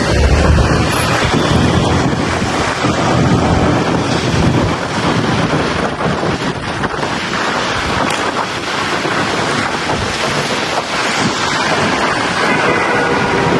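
Wind buffeting the microphone of a moving motorbike: a loud, steady rush with vehicle noise underneath.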